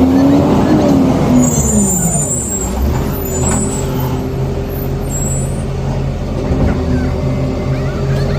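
Rubbish truck's engine dropping in pitch over the first couple of seconds, then running steadily, with thin high-pitched squeals from about one and a half to five seconds in.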